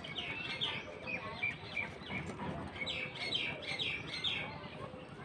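Small birds chirping, a rapid series of short, high, downward-sweeping calls that come thickest in the second half.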